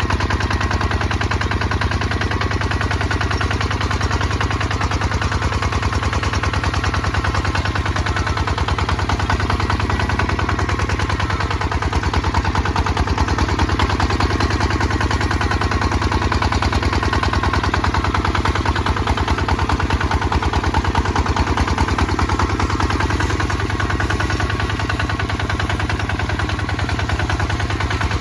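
Kubota ZT 155 DI single-cylinder diesel engine running steadily while plowing, its exhaust beats coming as a rapid, even chatter.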